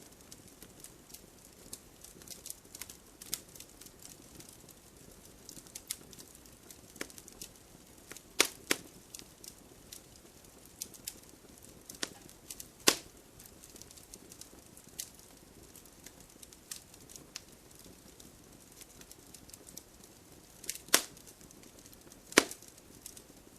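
Wood fire crackling: burning logs giving irregular sharp pops and snaps over a soft steady hiss, with a few louder pops standing out.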